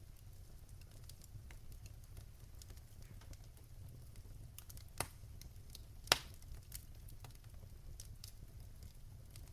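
Wood fire in a fireplace crackling, with a low steady rumble and scattered sharp pops, two of them louder about five and six seconds in.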